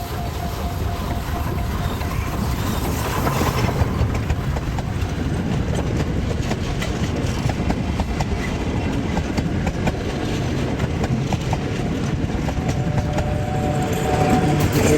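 Train passing close by, a steady rumble of wheels on the rails with regular clicks over the rail joints.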